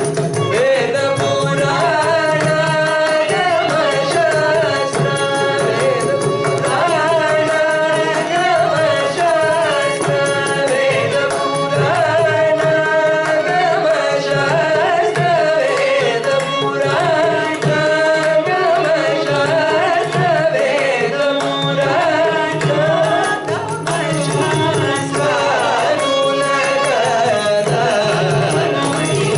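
Carnatic vocal singing with sliding, ornamented pitch, over a steady drone and accompanied by mridangam strokes.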